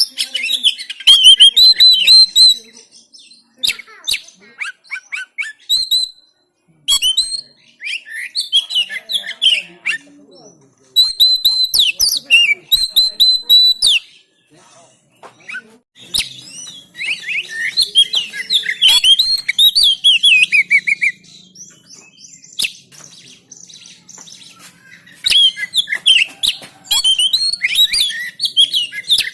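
Oriental magpie-robin (kacer) singing loudly in bursts of fast, varied chirps and whistles, several phrases with short pauses between them.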